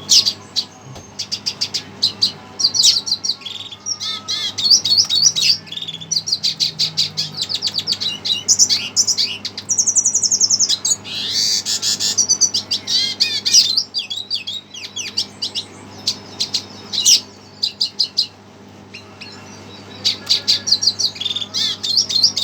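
Red siskin singing excitedly in fast runs of high twittering and trilled notes, with a few short pauses, fired up by bird song played to it.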